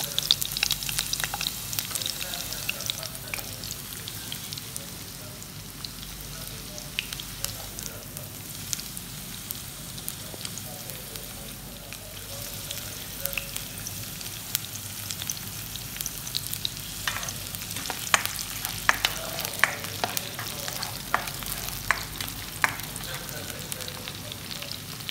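Garlic cloves sizzling in hot oil in a wok. Chopped onion goes in about halfway through, and in the later part a cooking spoon stirs the pan with frequent sharp clicks and scrapes against it.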